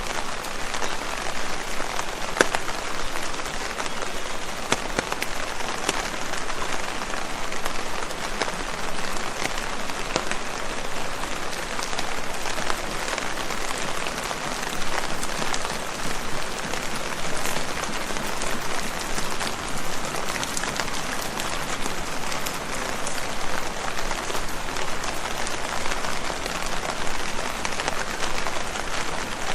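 Steady rain falling on leaves, a continuous patter with many distinct drop taps scattered throughout.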